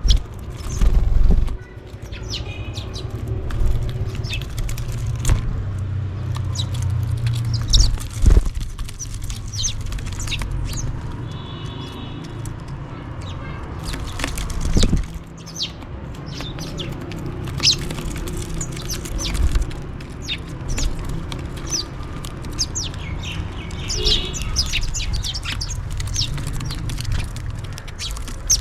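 House sparrows chirping and calling while feeding: many short, high chirps scattered throughout. Underneath runs a steady low rumble, with a few louder thumps near the start and about eight seconds in.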